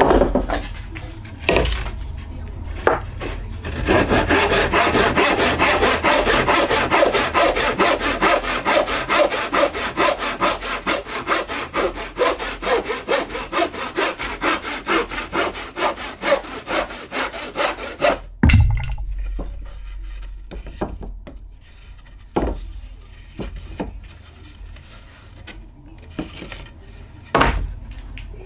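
Hand saw cutting pallet wood in quick, even back-and-forth strokes for about fourteen seconds, then stopping abruptly. Scattered knocks of wood being handled come before and after the sawing.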